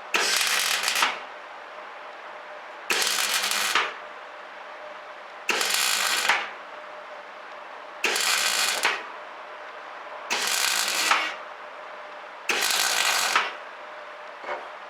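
Semi-automatic (MIG) welder arc crackling in six short welds of about a second each, a couple of seconds apart, as a steel patch plate is welded onto a Suzuki JB23 Jimny's bulkhead.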